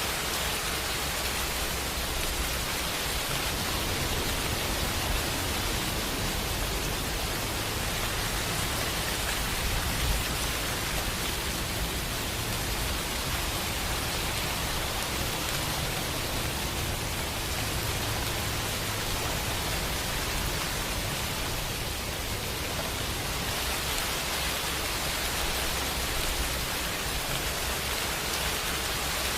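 Steady rain, an even hiss of falling drops with a low rumble underneath.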